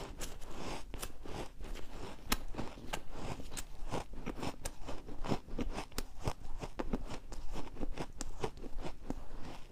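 Refrozen ice being bitten and chewed: a rapid, irregular run of sharp crunches and crackles.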